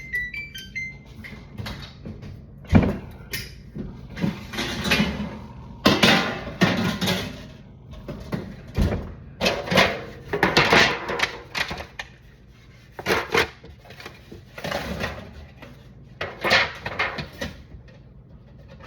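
A quick run of stepped electronic beeps at the start, then irregular clattering, rustling and knocks of kitchen items being handled while an air fryer is set up, with two sharp thumps about three and nine seconds in.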